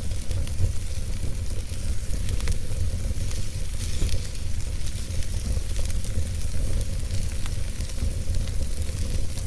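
Wood fire burning in a fireplace: a steady hiss with many small, irregular crackles and pops over a continuous low rumble.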